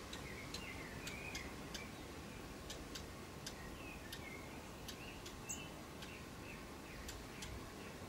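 Small garden birds giving short chirps every second or so, with scattered sharp ticks over a faint steady hiss.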